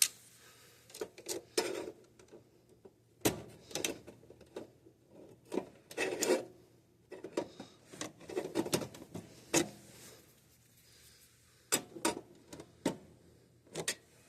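Irregular clicks, taps and short scrapes of stiff electrical wires being worked into a circuit breaker's terminals by hand, catching and getting hung up in a tight space.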